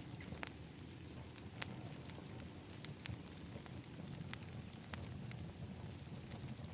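Outdoor fire pit fire crackling, with irregular sharp pops over a steady low rumble.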